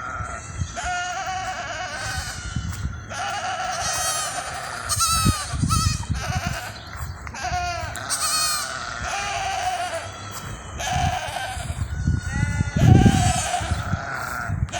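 A flock of sheep or goats bleating: many short, wavering calls, often overlapping, about one to two a second.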